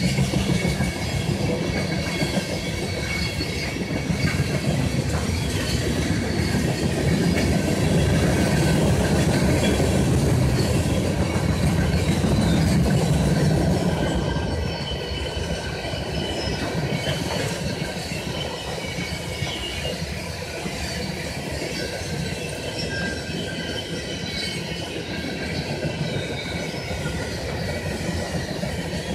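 Open-top freight cars of a CSX garbage train rolling past, steel wheels rumbling and clattering on the rails with a thin, high squeal from the wheels. The rumble is loudest in the first half and eases a little about halfway through.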